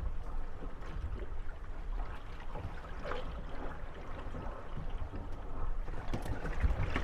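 Waves lapping against gondolas moored at a landing, over a low wind-and-water rumble, with a few faint knocks and creaks as the boats rock against each other.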